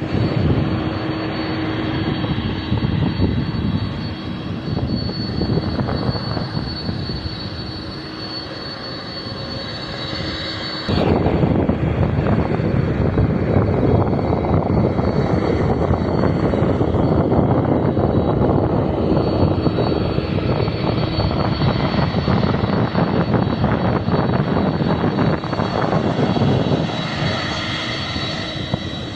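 Jet engines of a Boeing 737-700 (CFM56-7B turbofans) running steadily with a high, even whine over a broad rumble. About eleven seconds in, the sound jumps abruptly louder and rougher.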